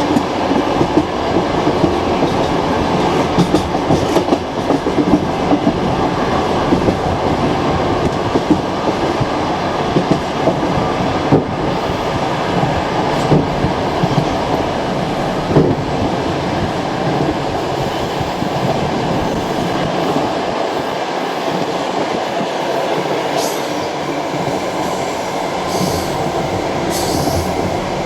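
Passenger train carriage rolling along the track: a steady rumble with the wheels clicking over rail joints. A few brief, sharper high-pitched sounds come near the end.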